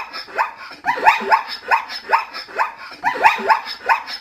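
A zebra calling: a rapid run of short, yelping barks, each rising in pitch, about three a second with a couple of brief pauses.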